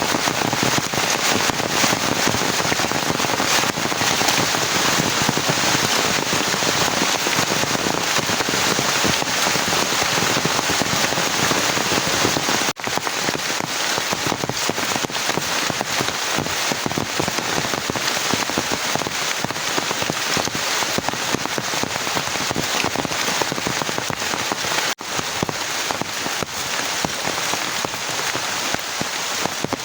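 Heavy rain falling steadily, a dense patter of drops. It cuts out for an instant twice, about halfway through and near the end.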